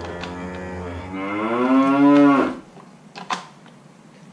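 Electronic cow moo from a Fisher-Price Little People Caring for Animals Farm playset: one long drawn-out moo that gets louder and bends upward before cutting off. A single light click of plastic follows about a second later.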